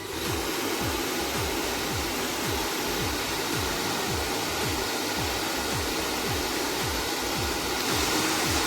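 Sirius hair dryer running with a steady rush of air, getting a little louder and brighter near the end, under background music with a steady thumping beat.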